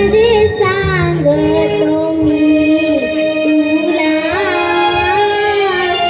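Young girls' voices singing a devotional melody with gliding, ornamented turns over steady held accompaniment notes.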